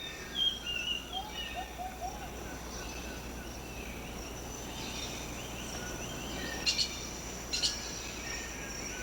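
Tropical rain forest ambience: a steady high insect drone with many short bird chirps and whistles, and a few sharp, brief chirps about two-thirds of the way through.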